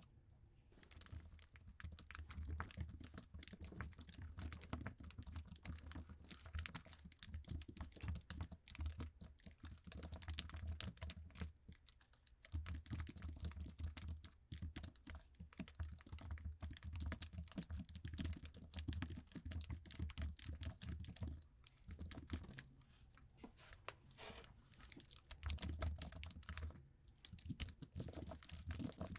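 Fast, continuous typing on an Apple iMac keyboard with low-profile keys, a dense run of light key clicks with a few brief pauses.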